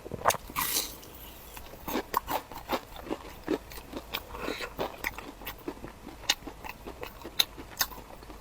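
Close-miked chewing and biting of crunchy food, with irregular sharp clicks and crackles of mouth sounds.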